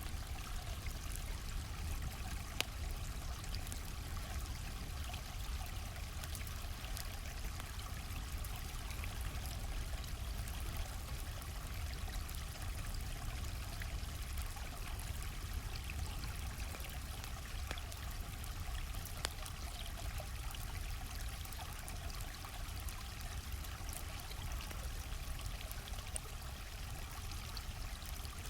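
Stream of water flowing steadily, with occasional sharp pops and crackles from a campfire.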